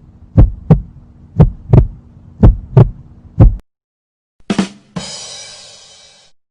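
Heartbeat sound effect: paired low thumps, about one lub-dub a second, over a steady hum, stopping after about three and a half seconds. Near the end, a short hit, then a bright ringing crash that fades away.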